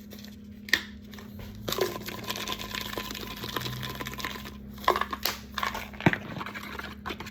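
Packaging crinkling and rustling as it is handled for a few seconds, with several sharp clicks and knocks, over a steady low hum.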